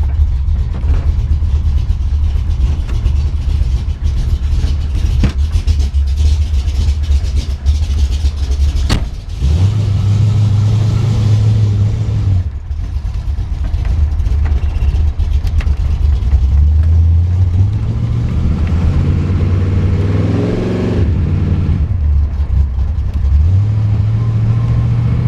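Freshly built 412-cubic-inch stroker V8, based on a 351 Cleveland, in a 1971 Mustang Mach 1, running under way. Its note steps up in pitch as it accelerates a few times, with a longer climb about two-thirds of the way through that drops back suddenly. The engine is brand new and still cold, so it is driven gently rather than run hard.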